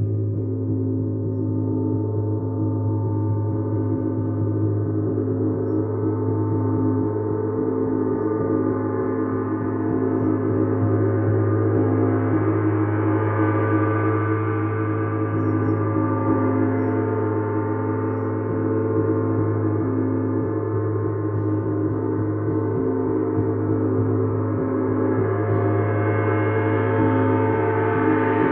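Gong played as a continuous, sustained wash of many overlapping ringing tones over a deep hum, with no separate strikes. It swells louder twice, about midway and again near the end.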